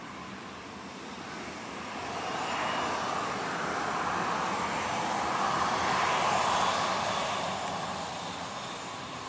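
Airliner passing close overhead: its engine noise swells up over a few seconds, peaks a little past the middle, then fades away.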